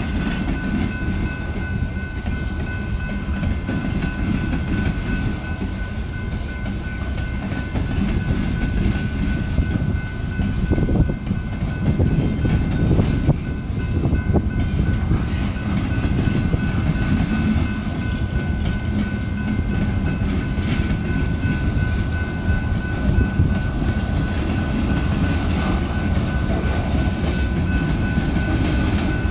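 Freight cars of a slow manifest train rolling past at a grade crossing: a steady rumble and clatter of steel wheels on the rails, with a steady high tone running over it.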